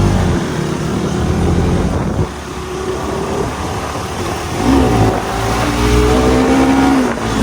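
Motorcycle engine running while riding, with wind noise on the microphone; the engine pitch rises and shifts about two-thirds of the way through.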